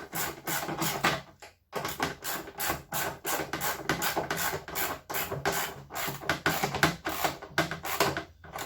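Ratchet wrench tightening bolts: a run of short rasping ratchet strokes, about two to three a second, with a brief pause about two seconds in.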